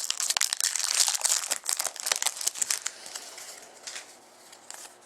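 Trading card pack wrapper crinkling and tearing as the pack is opened, busy for about three seconds and then thinning out to a few faint crackles.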